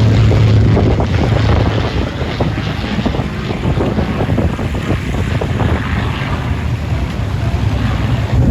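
Drone of a flying Avro Lancaster bomber's four Rolls-Royce Merlin engines, mixed with wind buffeting the microphone. The deep engine note weakens about two seconds in.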